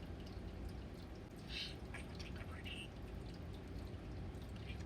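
Pet budgerigar chattering softly: a few short, high chirps and clicks over a low, steady room hum.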